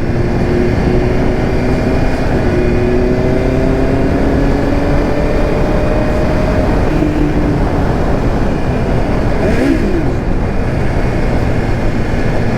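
BMW S1000RR M's inline-four engine running while the bike is ridden, under heavy wind rush. The engine note climbs slowly over the first six or seven seconds, then eases off.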